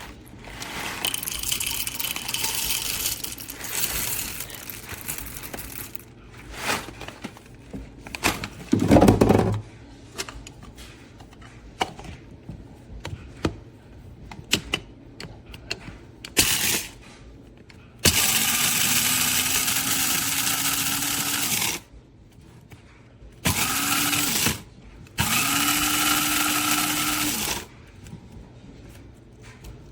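Amazon Basics electric blade coffee grinder running in three pulses, each spinning up with a rising whine that then holds steady: a run of about four seconds, a one-second burst, then a run of about two and a half seconds. Earlier there is handling clatter: light knocks and a single loud thump.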